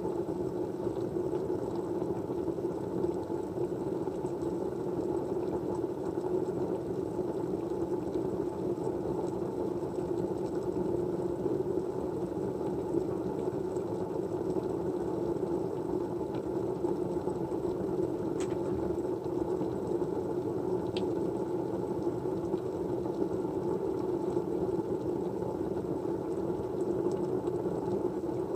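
Steady, even low hum of background white noise with no change, with two faint ticks in the second half.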